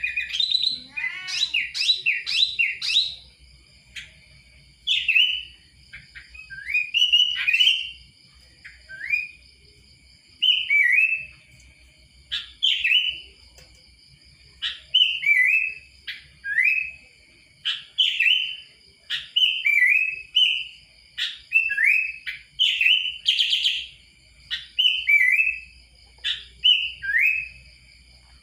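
Sooty-headed bulbul (kutilang) singing: short phrases of clear whistled notes that drop in pitch, repeated every second or two, over a faint steady high tone.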